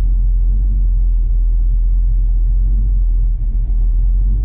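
Rat rod's engine idling with a steady low rumble.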